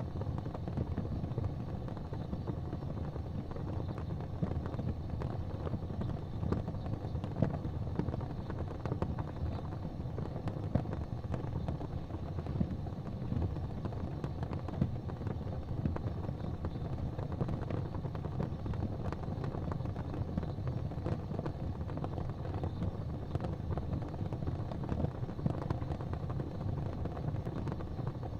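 Fireplace fire burning with a steady low rumble and frequent small crackles and pops.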